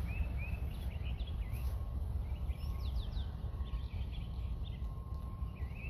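Birds chirping in short repeated calls over a steady low rumble of outdoor noise.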